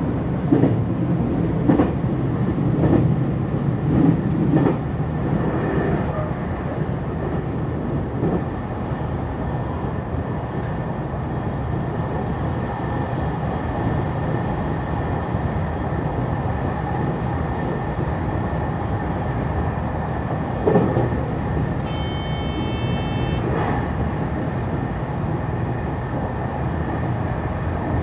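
Electric train running along the rails, heard from inside the train: a steady rumble of wheels and running gear, with a few knocks early on. Late on, a brief high electronic tone sounds for about a second and a half.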